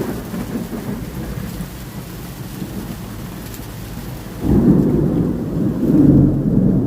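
Thunder rumbling during a thunderstorm, with rain falling; a much louder, deep peal of thunder breaks in about four and a half seconds in and keeps rolling.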